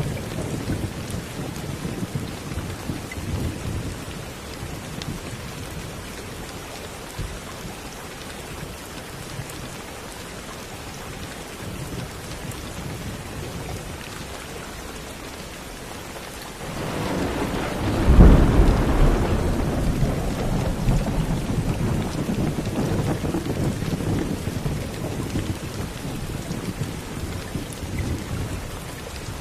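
Steady rain with rolling thunder. A low rumble fades over the first few seconds; then, about 17 seconds in, a louder thunderclap breaks and rolls on, dying away slowly.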